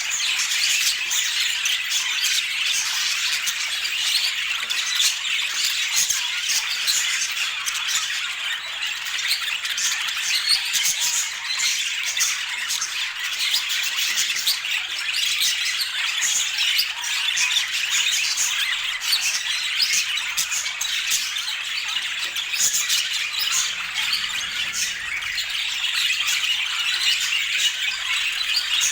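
Budgerigars chattering and squawking continuously, a dense run of warbles, chirps and sharp squawks with no pauses.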